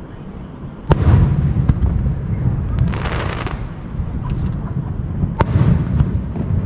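Fireworks display: two sharp, loud bangs of bursting aerial shells, about a second in and about five and a half seconds in, each trailed by a rushing hiss. A crackling hiss comes around the three-second mark, with a few small pops after it.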